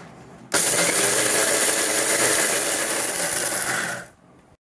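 600 W Bosch MGM4334BIN mixer grinder running its medium jar with the blunt pounding blade, dry-grinding tuvar dal, red chilies and pepper. It starts abruptly about half a second in, runs steadily, and dies away just after four seconds.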